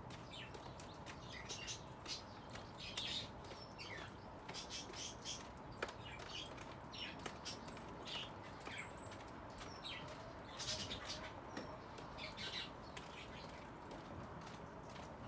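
Birds chirping in short, scattered high notes, mixed with sharp little clicks and taps.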